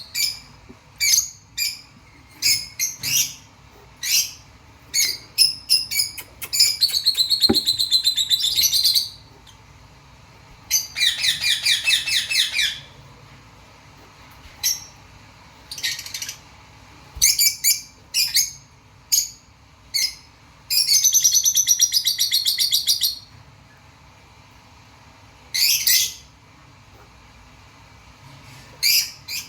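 White cockatiel calling: a series of short high chirps, broken by several rapid warbling trills lasting a second or two each.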